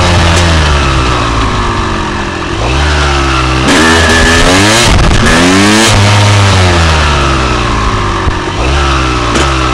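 1999 Honda CR250R's two-stroke single-cylinder engine under way, its revs falling over the first couple of seconds, then rising and dropping several times as the throttle is worked, with wind rushing over the handlebar-mounted microphone.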